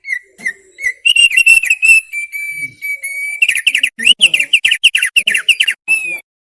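Thick-billed heleia (opior paruh tebal) singing: a string of clear whistled notes, a held steady whistle about two seconds in, then a quick run of down-slurred notes that stops a little after six seconds.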